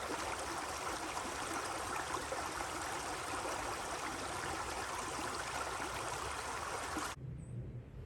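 Steady rush of a flowing stream, cutting off abruptly about seven seconds in, followed by a much quieter low hum.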